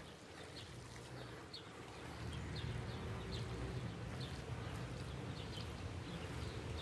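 A small bird chirping repeatedly, short high chirps a couple of times a second, over a low steady outdoor rumble.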